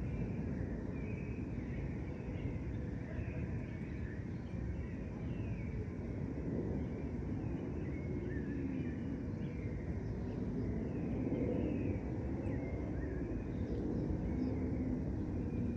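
Park ambience with a steady low rumble of city traffic and many small birds chirping, short quick calls scattered throughout.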